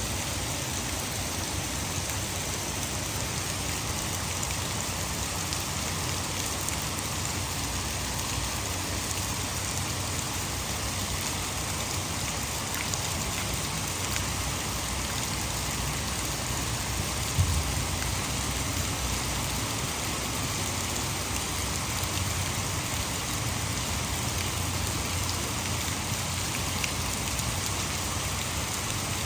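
Heavy rain falling steadily, mixed with the rush of water falling over a nearby hydroelectric dam. There is a single brief thump a little past halfway.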